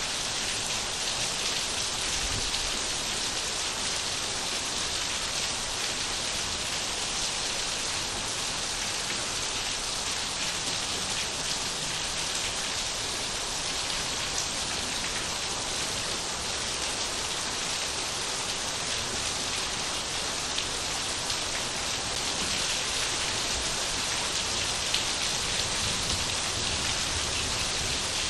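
Steady rain falling on surfaces: an even hiss of many raindrops, with a few slightly louder drops near the end.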